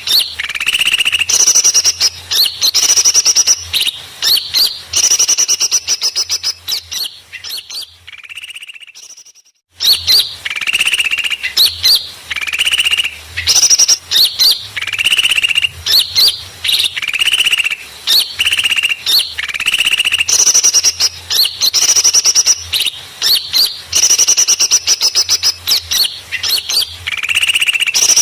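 Bird-lure recording of small birds chirping noisily, with rapid high tweets and trills repeating in a loop. It fades out about eight seconds in, goes silent for a second and a half, then starts again at full level.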